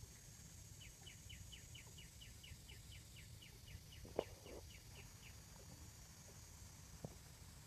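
A bird calling a rapid series of about twenty short, high, falling notes, roughly four or five a second, stopping a little past five seconds in. A sharp click about four seconds in is the loudest sound, with a second click near the end, over a faint steady low rumble.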